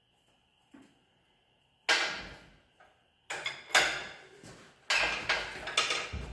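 A run of sharp knocks and clatters from equipment being handled on a garage floor, starting about two seconds in and coming four or five times.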